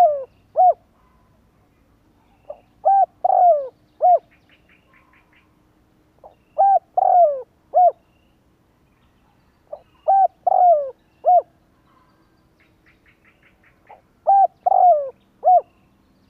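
Spotted dove cooing its repeated phrase about every three and a half seconds: a short note, a pair of notes, a drawn-out falling coo and a clipped final note. It is the calling used to rouse and lure wild doves. Faint rapid high chirps sound between some phrases.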